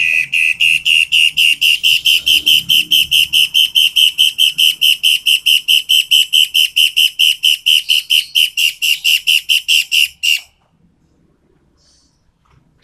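Toed matahari bird calling loud and sharp: a single whistled note repeated rapidly and evenly, about four to five times a second, for some ten seconds, then stopping abruptly.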